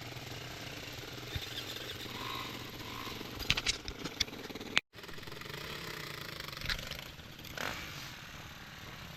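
Enduro motorcycle engine idling with a steady low beat, with a few sharp clicks a little before the middle; the sound cuts out for an instant near the middle and then carries on.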